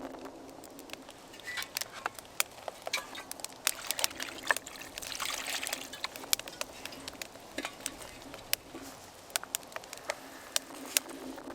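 Water poured and trickling over vegetables being rinsed, with scattered small clicks and knocks of handling.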